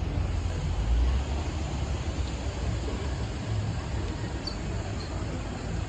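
Steady city street background, a low traffic rumble with no distinct events, swelling briefly about a second in.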